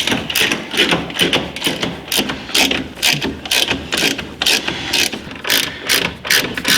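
Hand ratchet wrench clicking repeatedly in quick strokes, several clicks a second, as brake caliper mounting bolts are run in before torquing.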